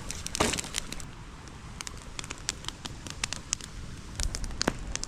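Campfire crackling as it finally takes hold, with irregular sharp pops and a brief louder rush about half a second in.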